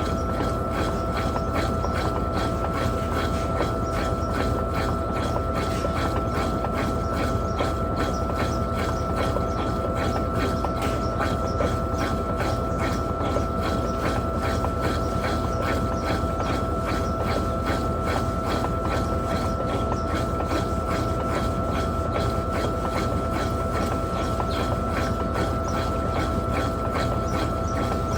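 Electrolux LTP15 top-loading washing machine running steadily, most likely in its final spin, with a constant motor whine and a fast, even rhythmic ticking.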